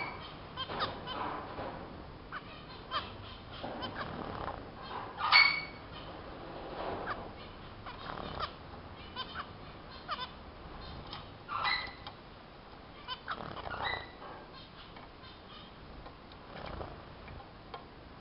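Small cage finches (zebra, Bengalese and strawberry finches) chirping and calling: irregular short calls, a few louder pitched ones standing out.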